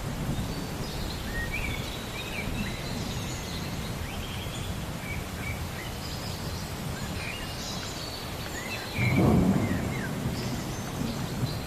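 Steady rain with thunder rumbling low, swelling into a louder roll of thunder about nine seconds in. Birds chirp in short calls over the rain.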